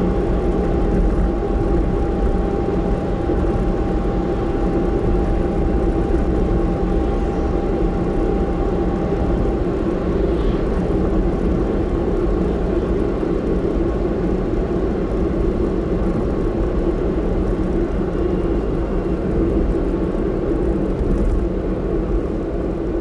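Steady road and engine noise of a car driving, heard from inside the car. A faint thin steady tone runs under it and stops about nine seconds in.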